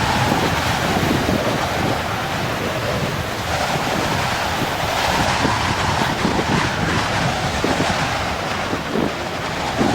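Storm-driven ocean surf breaking on the shore, with strong wind buffeting the microphone in frequent low rumbling gusts.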